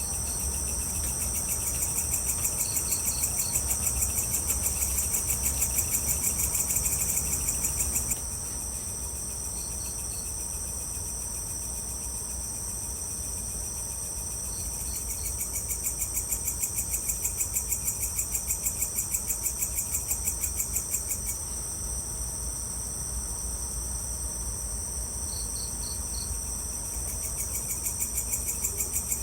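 Chorus of night insects such as crickets, a dense fast-pulsing high-pitched trill that swells and drops back three times. A short run of three or four higher chirps repeats every five seconds or so, over a low steady rumble.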